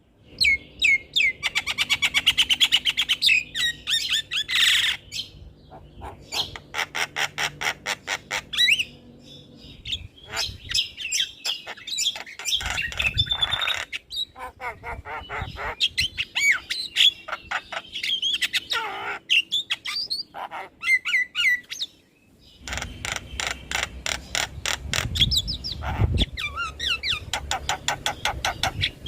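Javan myna singing: rapid chattering runs of repeated notes, whistles and harsh squawks, delivered in varied phrases broken by short pauses.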